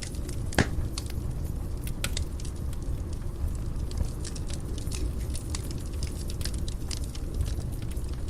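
Wood fire burning in a fireplace: a steady low rumble of the flames with frequent irregular crackles and snaps, and one louder pop about half a second in.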